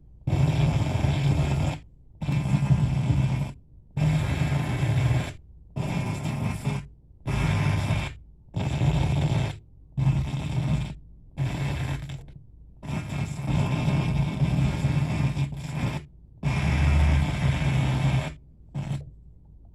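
FM radio station audio breaking up into weird, buzzy garble. It plays in chunks of a second or two and cuts to dead silence between them, about a dozen times: the station's broadcast is malfunctioning and getting worse.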